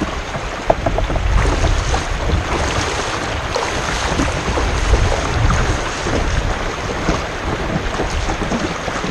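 Plastic kayak hull dragging and scraping over a shallow stony riverbed, with many small irregular knocks, and wind rumbling on the microphone.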